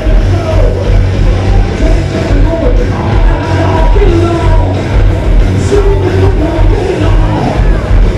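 A hard rock band playing loud live, with electric guitars, bass and drums and a wavering melodic lead line over the top.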